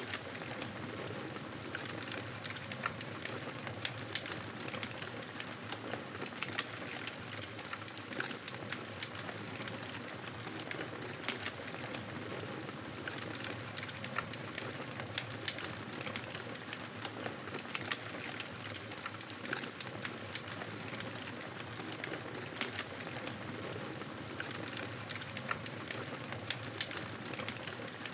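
Wood fire in a fireplace crackling: a steady hiss of burning with frequent sharp pops and snaps scattered throughout.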